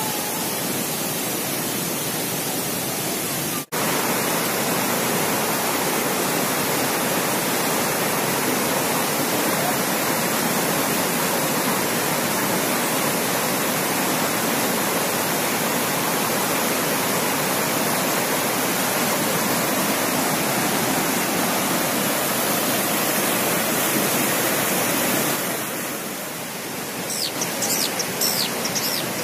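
Waterfall water rushing as a steady, loud wash of noise, cut off for an instant about four seconds in. Near the end it eases a little and short high chirps come through.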